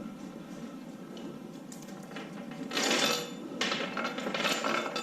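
Metal clattering and clinking, starting a little more than halfway through and coming in two loud spells, over a steady low background hum.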